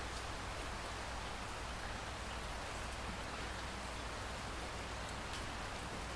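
Steady rain falling, an even hiss of drops on surfaces with a few sharper individual drop ticks and a low background rumble.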